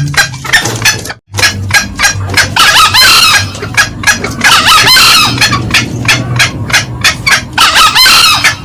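Green junglefowl calling: a rapid run of short, sharp cackling notes, about four or five a second, with three longer, louder calls spread through it. A brief break about a second in.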